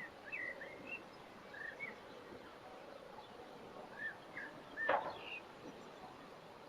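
Birds chirping in short, scattered notes over faint outdoor background noise, with a single sharp knock about five seconds in.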